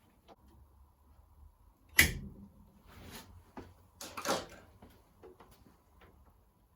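Handling noises from work on the car: one sharp knock about two seconds in, then scuffs and a louder rustle around four seconds, with a few small taps after.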